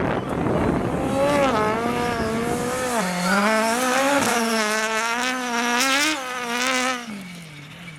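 Rally car engine revving hard, its pitch climbing and falling repeatedly through throttle changes and gear shifts as the car drives the stage. The engine falls away sharply about three seconds in, then fades near the end as the car moves off.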